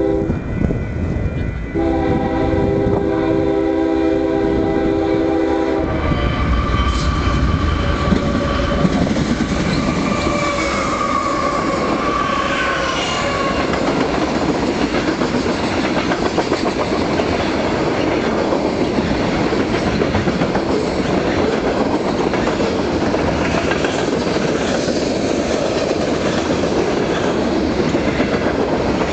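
A train sounds its horn in one held chord of several notes for about four seconds. It then rolls past steadily, with the clatter of wheels over the rail joints.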